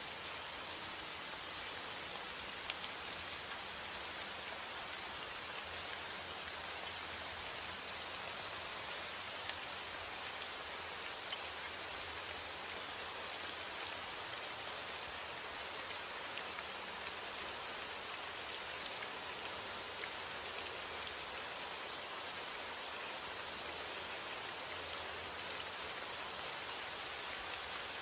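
Steady rain, with many small drops ticking on a surface.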